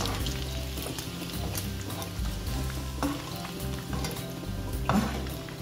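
Small meatballs frying in hot oil: a steady sizzle with crackling and a few sharp clicks, over background music.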